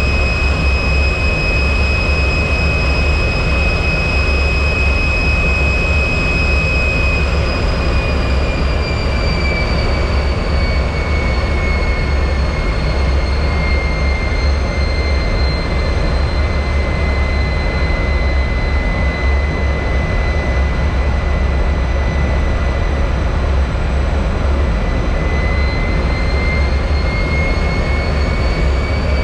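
T-33 jet's turbojet engine running in flight: a loud, steady deep rumble under a high whine. The whine slides down in pitch about a quarter of the way in, holds low, and climbs back near the end.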